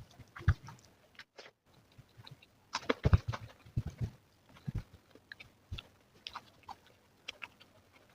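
Close-miked chewing: irregular wet clicks and crunches of food being bitten and chewed, busiest about three seconds in.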